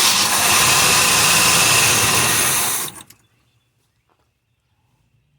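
Chevrolet Monte Carlo engine, just started after sitting for about a year and a half, running loud with a steady rush for about three seconds. It then drops off suddenly to a faint low idle.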